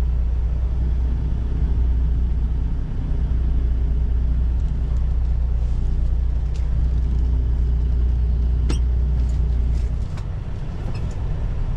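International LT semi truck's diesel engine running low and steady while the truck rolls slowly, with a few short clicks along the way. The engine note eases off about ten seconds in.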